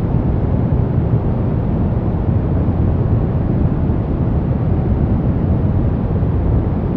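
Brown noise: a steady, deep, even rushing hiss with most of its weight in the low end and little treble, unchanging throughout.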